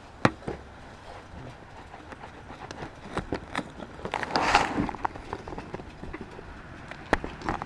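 Scattered clicks and knocks at irregular intervals, with a brief rustling burst about four and a half seconds in.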